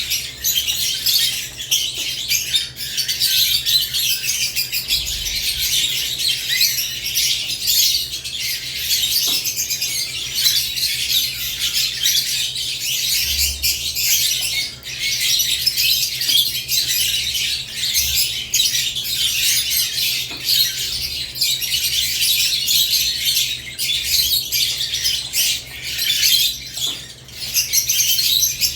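Caged lovebirds chattering with a dense, unbroken stream of high-pitched chirps and squawks.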